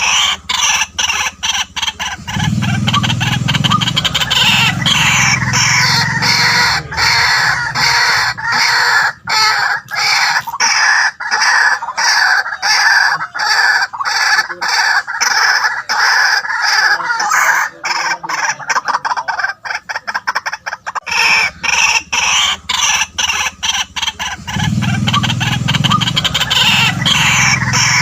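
White-breasted waterhen calling in a long, unbroken run of harsh, rapidly repeated notes, several a second. A deeper, lower sound joins in about two seconds in and again near the end.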